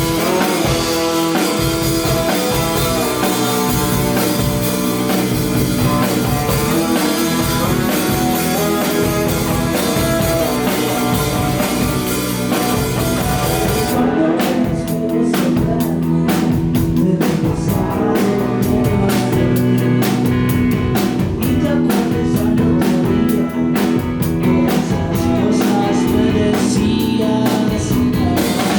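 Rock band playing live, with electric guitar and a drum kit. About halfway through, the drums pick up with steady, repeated cymbal strokes.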